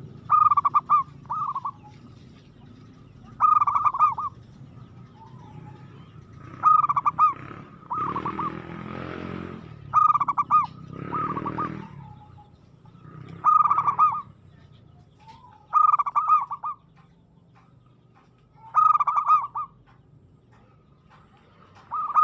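Zebra dove cooing its rapid, trilled song, a short phrase repeated about every three seconds. A noisy low rumble runs under it around the middle.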